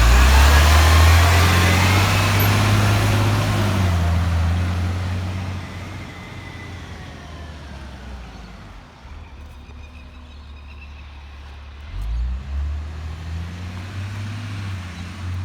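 Garbage truck engine pulling away, loud at first and fading over the first several seconds. Another vehicle engine swells up about twelve seconds in.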